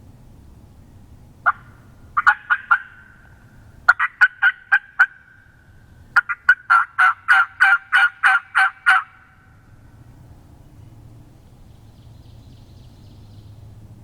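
Wild turkey yelping: a single yelp, then runs of about four, seven and eleven sharp two-toned yelps, each run longer than the last, about five a second.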